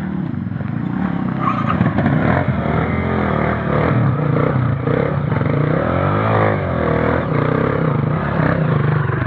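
Off-road motorcycle engines running and revving, the pitch rising and falling several times.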